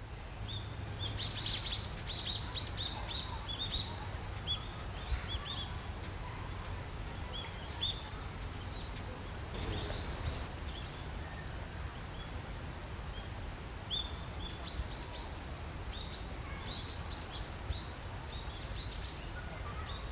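Small birds chirping in many short, high calls, in loose clusters, over a steady low rumble.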